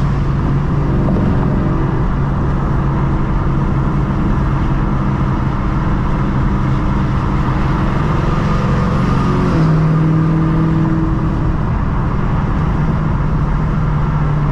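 Engine of an E85-tuned, full-bolt-on sixth-generation Camaro 1LE droning steadily at freeway speed, heard from inside the cabin with wind noise through the partly open windows. About ten seconds in, its pitch steps up slightly.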